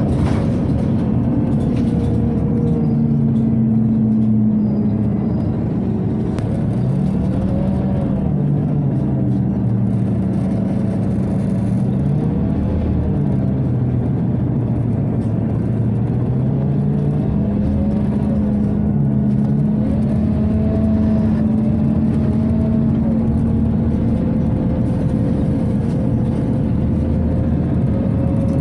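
Inside a Scania OmniCity city bus: the engine rising and falling in pitch several times as the bus speeds up and slows down, over a steady whir from the cabin ventilation.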